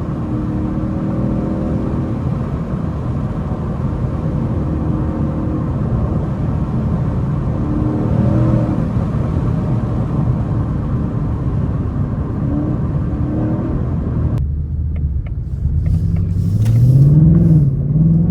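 The 2024 Mustang GT's 5.0 V8 runs steadily under road noise while driving. Near the end the hiss drops away suddenly and the engine note climbs and falls as the car accelerates.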